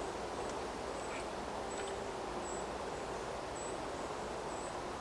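Outdoor ambience: a steady background hiss with faint, very high, thin chirps repeating about once a second, and a few faint clicks.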